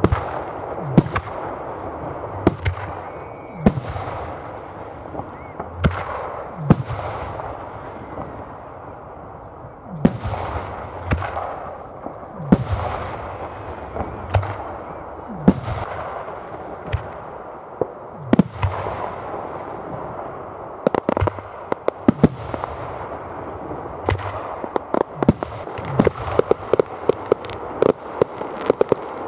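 Fireworks display: aerial shells bursting in sharp, echoing bangs every second or two over a continuous crackle. Near the end the bursts come thick and fast in a rapid volley.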